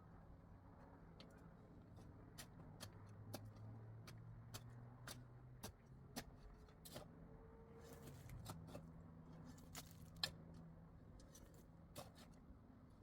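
Faint, irregular sharp clicks and taps, a dozen or more, one louder about ten seconds in, over a low steady hum.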